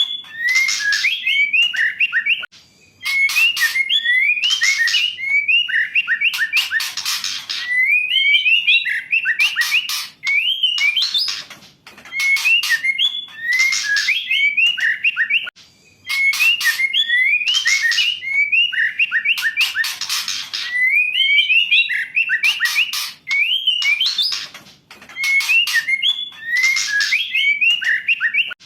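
Female white-rumped shama singing in repeated phrases. Quick whistled notes glide up and down, mixed with harsh rasping chatters, with short pauses several times. This is the kind of song used as a lure to set a reluctant male shama singing.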